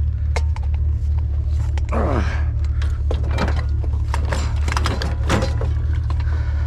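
Irregular knocks, cracks and clatter as a discarded item is broken apart by hand for scrap, over the steady low hum of an idling truck engine.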